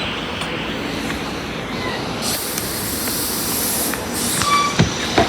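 Silverliner IV electric commuter train at the platform, giving out a steady hissing rush of noise that turns brighter and sharper from about two seconds in. Near the end come a few short high squeaks and knocks.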